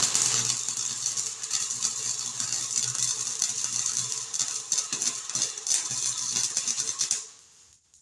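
Welding bead being run on sheet-metal patch panels: a steady crackle that starts abruptly and stops about seven seconds in.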